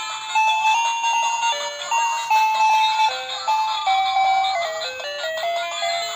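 Children's electronic toy piano playing a simple beeping melody, one note at a time in quick steps up and down.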